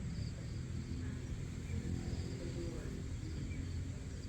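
Outdoor pre-dawn ambience: insects such as crickets trilling in short pulsed chirps, with a few faint bird calls over a steady low rumble.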